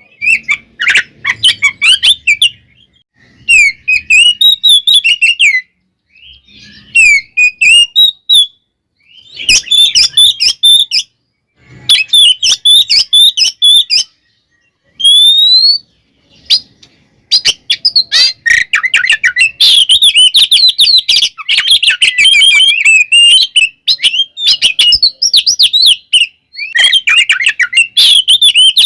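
Oriental magpie-robin (kacer) singing a loud, rapid, varied song of whistles and chattering notes in bursts with short pauses, turning almost continuous a little past halfway: the aggressive 'ngeplong' fighting-style song used to provoke other males.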